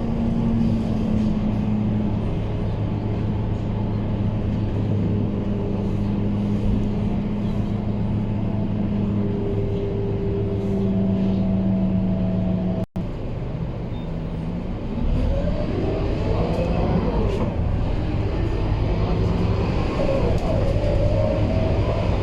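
Scania K230UB city bus's diesel engine running with a steady drone. There is a momentary break in the sound about halfway through. After that the engine note rises and falls as it picks up speed.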